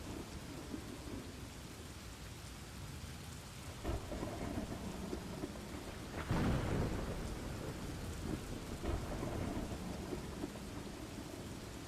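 Steady rain with thunder. A louder rumble of thunder comes about six seconds in.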